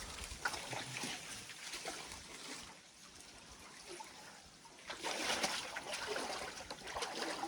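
Stream water splashing and trickling, with a few short sharp splashes. It goes quieter about three seconds in, then rises into a longer stretch of splashing.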